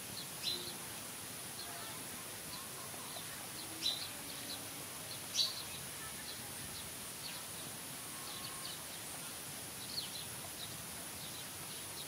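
Outdoor ambience with small birds chirping in short, high calls every second or so over a steady hiss, a few chirps standing out louder.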